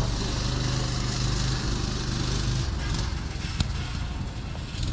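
Off-road buggy engine running steadily with a low hum, dropping away about halfway through, then a single sharp click.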